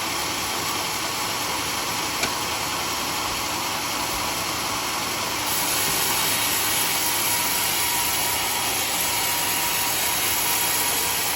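Sawmill saw machinery running steadily while teak is sawn, with a single small click about two seconds in. A stronger high hiss comes in about halfway through and holds.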